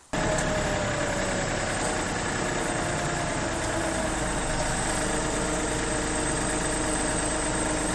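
Kioti CK3510 compact tractor's three-cylinder diesel engine running steadily.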